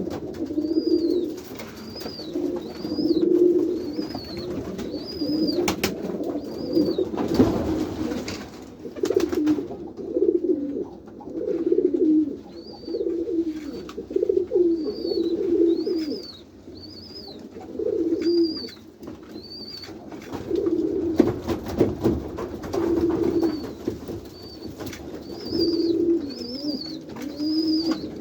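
A loft full of domestic pigeons cooing, with low coos overlapping and repeating throughout. Runs of short, high chirps repeat over the cooing about once or twice a second, and a few brief scuffs or knocks come through, around a quarter of the way in and again about three quarters of the way in.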